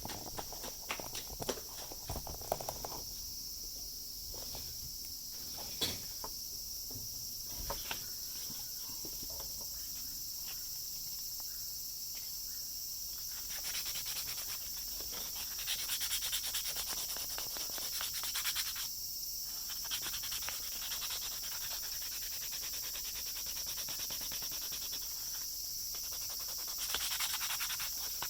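Sandpaper rubbing on a 3D-pen plastic repair on an eyeglass frame, scratching in stretches with a few small handling clicks, over a steady high-pitched background hiss.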